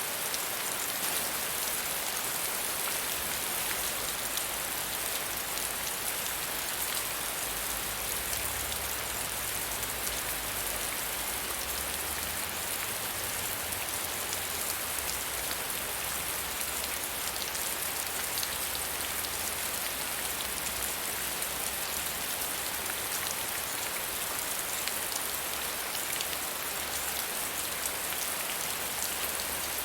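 Steady soft rain falling on a surface, an even hiss with many fine drop ticks.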